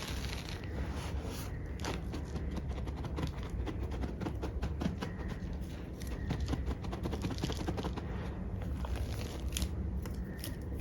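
Hands pressing and scraping through loose gym chalk powder, giving a dense, continuous run of small soft crunches and crackles.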